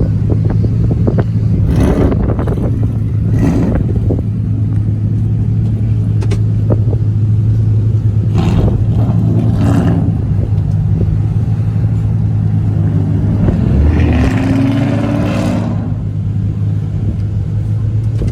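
Car engines running with a steady deep drone, broken by several short, loud bursts of engine noise.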